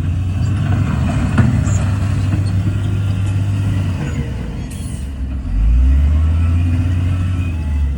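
Heavy diesel engine of earthmoving machinery running with a deep note that rises and falls as it works under load, swelling again from about five and a half seconds in.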